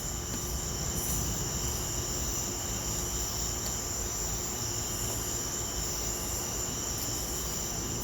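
Crickets chirring steadily in a night insect chorus, with a low rumble underneath.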